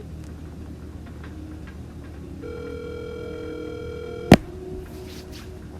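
Telephone ringback tone heard through the call: one steady ring of about two seconds, ended by a sharp click. The call is ringing at the other end.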